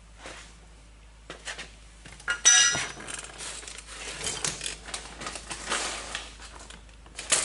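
Small loose metal parts, rib nuts, clinking and rattling as they are handled, with one bright ringing clink about two and a half seconds in and a sharp click near the end.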